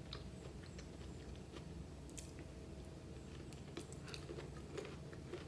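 Faint chewing of a mouthful of chicken biryani, with scattered small wet mouth clicks, over a low steady hum.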